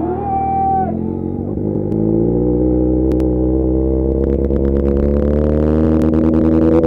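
Motorcycle engines held at raised revs, louder from about two seconds in, their pitch climbing slowly and steadily, with a few sharp clicks.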